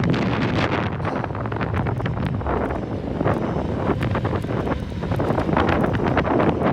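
Wind buffeting the microphone of a rider on an electric unicycle: a loud, steady rush of noise that swells and dips in short gusts.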